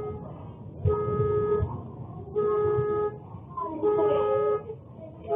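Car alarm sounding the horn: one steady-pitched honk about every second and a half, each lasting about half a second, four times.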